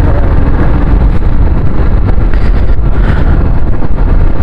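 Loud, steady wind rush on the microphone of a moving motorcycle, mixed with the running noise of the bike on the road.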